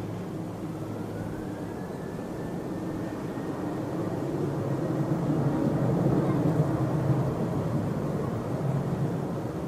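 Jet airliner engines at takeoff power, heard from a distance. The noise swells to its loudest a little past the middle and then eases off, with a faint rising whine in the first few seconds.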